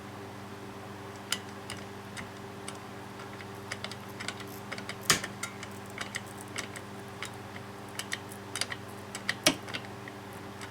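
Caulking gun being squeezed to press a fitting into nylon fuel line, its trigger and plunger giving irregular sharp clicks, two of them louder than the rest.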